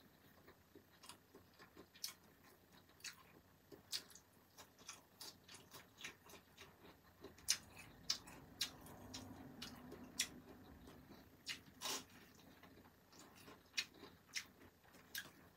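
Faint chewing and crunching of crispy batter-fried shrimp eaten with rice by hand: irregular sharp crunches and mouth clicks, a few of them louder.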